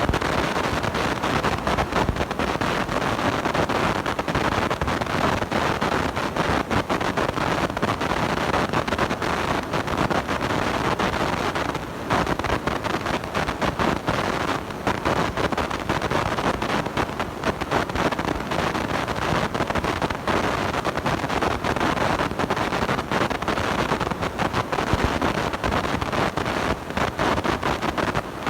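Constant harsh crackling and rushing noise from a blown-out, distorting microphone.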